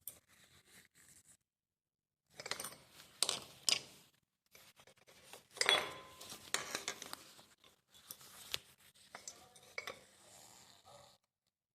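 Metal clinks and scrapes from a brake pad's spring clip being worked by hand and bent open so it holds the pad without play, in three bursts of handling.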